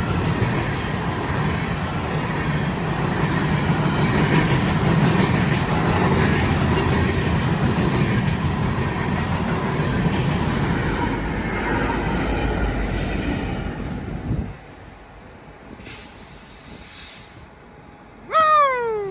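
Fast freight train rolling past with a loud, steady rumble of wheels on rail that cuts off suddenly about fifteen seconds in. Near the end there is a brief, loud tone that falls steeply in pitch.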